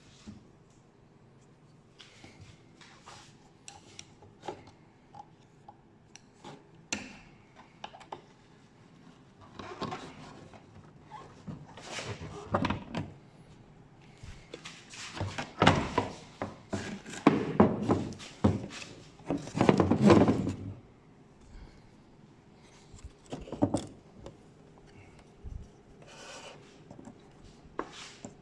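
Hands working a car's plastic rear light unit loose: scattered clicks and knocks with rubbing and scraping of plastic, busiest about ten to twenty seconds in.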